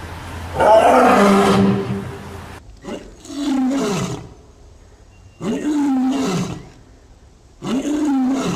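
An animal calling loudly four times in a row: a long call, then three shorter calls about two seconds apart, each rising and then falling in pitch.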